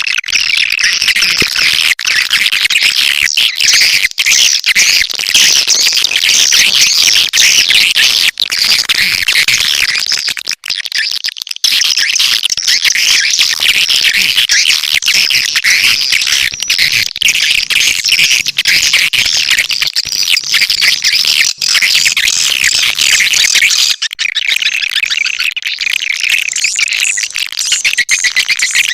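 Swiftlet lure call (suara panggil walet): a recording of swiftlets' dense, continuous high-pitched twittering and chirping, of the kind played to draw swiftlets into a nesting house. It drops out briefly about ten seconds in.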